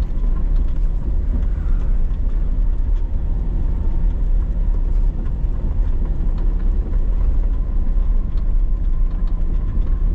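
Off-road vehicle engine running steadily as it drives along a snowy trail, a continuous low rumble.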